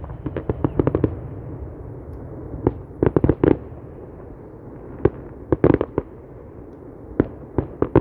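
Fireworks display: clusters of sharp crackling bangs, several quick cracks in each group, coming in bursts about every two seconds over a steady low rumble.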